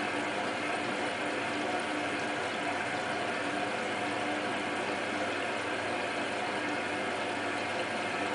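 Hotpoint WT960 washing machine running, a steady mechanical hum with a few constant tones and no pauses.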